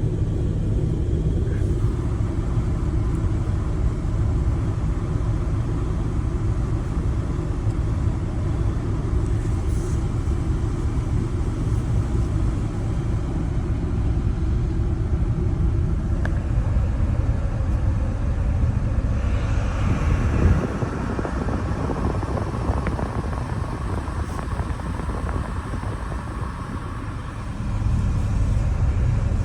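Steady low rumble of a 2007 Chevrolet Trailblazer's HVAC blower, set high, with the engine idling, heard inside the cabin. The air sound changes character about twenty seconds in as the blend door actuators cycle through recalibration.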